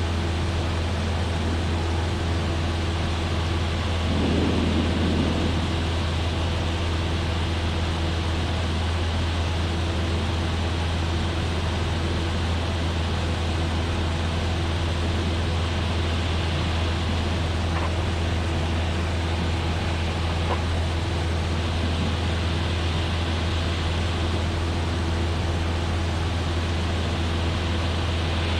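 Cessna 172F's six-cylinder Continental O-300 engine and propeller droning steadily in cruise, with a brief louder swell about four seconds in.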